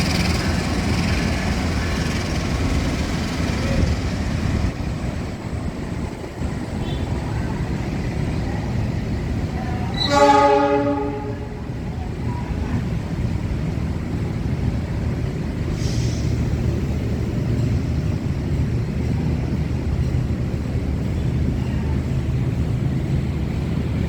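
Train running with a steady low rumble. About ten seconds in, a locomotive horn sounds one blast of about a second and a half.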